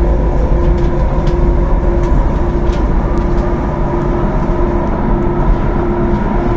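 Thessaloniki Metro train running between stations, heard from on board: a loud, steady low rumble with a mid-pitched hum that drops in and out, and a few faint clicks.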